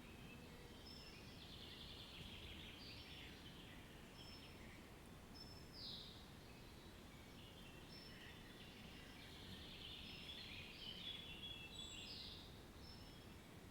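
Faint birdsong: several small birds chirping and trilling, with short high repeated notes and a few quick falling notes, over a low, steady outdoor hiss.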